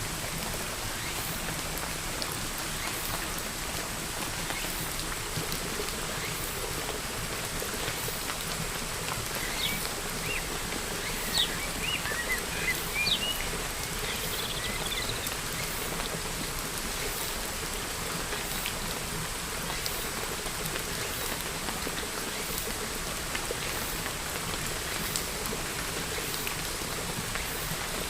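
Steady rain falling, with a bird chirping a few short times about ten to fifteen seconds in.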